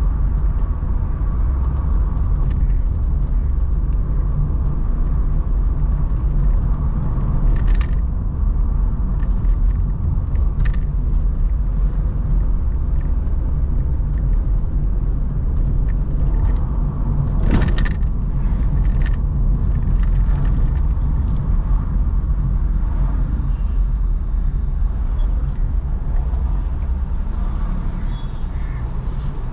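Car driving along a city road: a steady low rumble of road and engine noise, with scattered light rattles and clicks and one short louder noise a little past halfway.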